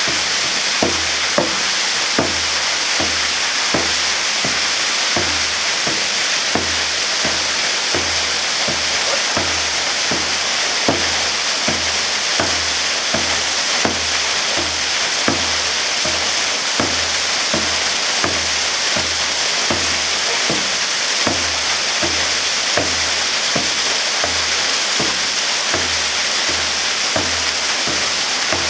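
Waterfall pouring and splashing, a loud steady rush broken by irregular splashes and thuds about one or two a second.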